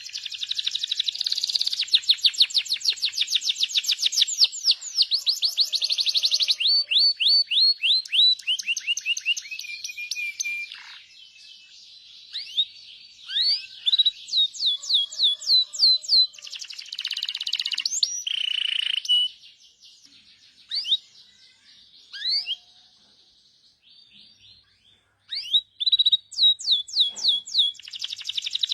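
Small birds chirping: fast runs of short, high, downward-sliding chirps, several a second, in bursts with quieter stretches between.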